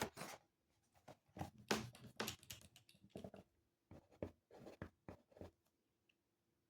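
Faint irregular short scratches and taps, with a louder rustling burst at the start.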